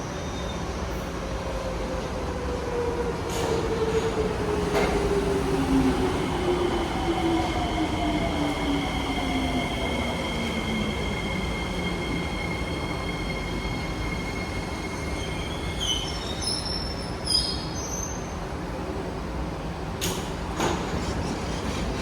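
SMRT C151B metro train's traction motors whining, the whine falling steadily in pitch as the train slows, over the rumble of the running train. Short high wheel squeals come near the end, followed by a couple of knocks.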